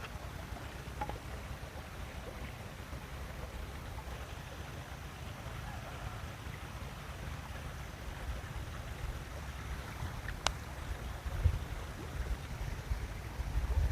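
Uneven low rumble of wind on the microphone, swelling in gusts near the end, with a single sharp click about ten and a half seconds in.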